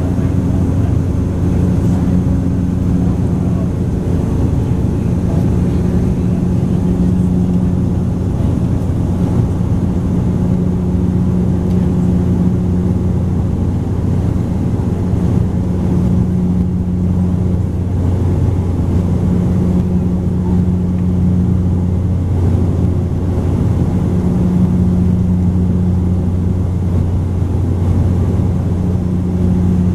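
Cabin drone of a Bombardier Dash 8 Q400 turboprop in the climb: the loud, steady low hum of its propellers and engines, with a second, higher tone that swells and fades every few seconds.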